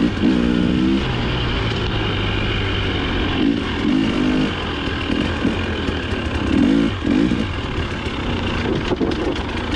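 Dirt bike engine under load, revving up and down repeatedly with quick rises and drops in pitch. A few sharp knocks come near the end.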